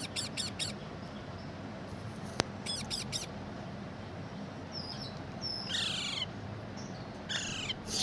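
Pet green parrot calling: quick high chirps at first, then about halfway through louder, drawn-out screeches that fall in pitch, one after another. A sharp click a little before the middle.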